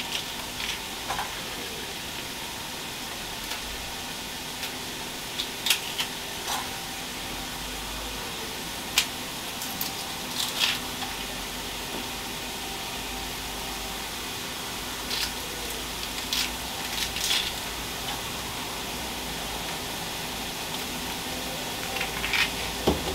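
Carrot and garlic frying in oil in a Ninja Foodi multi-cooker pot, a steady sizzle. Scattered sharp taps of a knife on a wooden chopping board as onions are peeled and cut.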